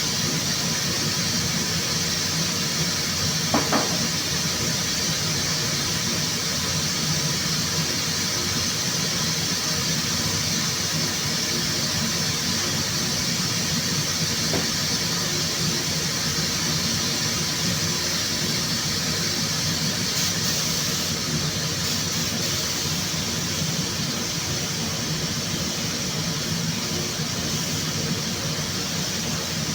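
Steady hiss of air with a low hum underneath, and one short click about three and a half seconds in.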